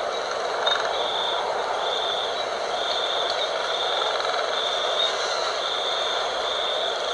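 Steady night wind blowing. Over it, a high chirping call pulses on and off about once a second.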